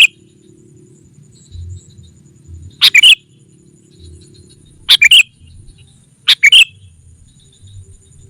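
Sooty-headed bulbul (kutilang) calling: loud, short, chattering calls in three clusters about two seconds apart, the call used to lure wild bulbuls.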